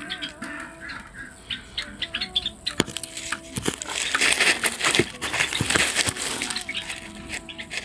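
Cockatiel chick fluttering its wings, with many short scratchy clicks and a denser rustling flurry about four to six seconds in.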